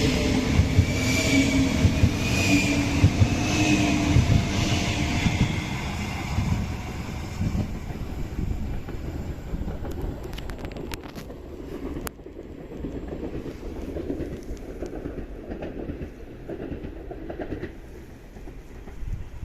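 A train passing with a rhythmic clatter of wheels over the rails, loudest in the first few seconds and then fading as it moves away; a few sharp clicks come about ten to twelve seconds in.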